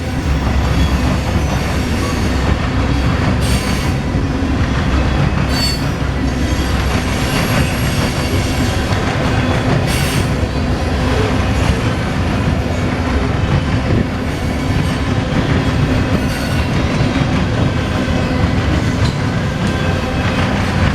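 Norfolk Southern local freight train rolling past close by while running in reverse: a steady loud rumble and rattle of freight car wheels on the rails, with a few sharp clicks and a brief high wheel squeal about six seconds in.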